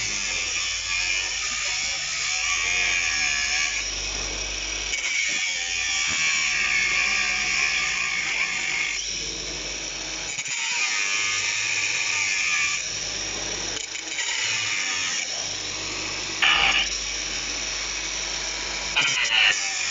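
Small high-speed electric power tool cutting into an electric hot plate, a continuous high whine that sags and recovers as it bites into the metal, with two short, sharper screeches near the end.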